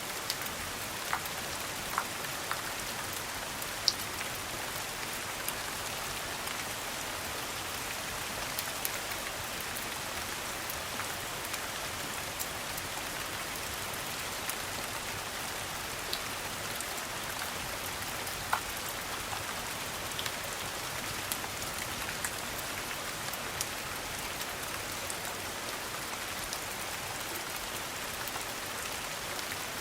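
Steady rain falling, an even hiss with occasional short sharp ticks and pops scattered through it.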